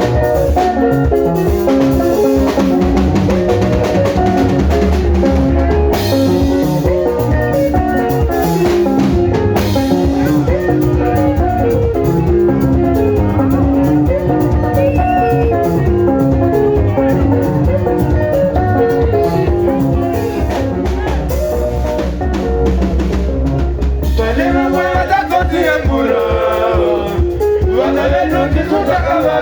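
Sungura band music: fast, interlocking electric guitar lines over bass and a drum kit, with voices coming in near the end.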